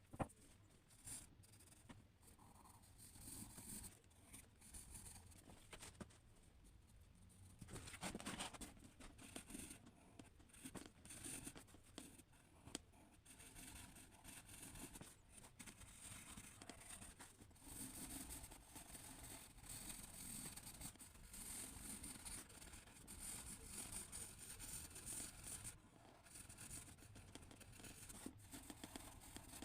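Faint scratching of a drawing tool on paper in short, uneven strokes, with a sharp click right at the start.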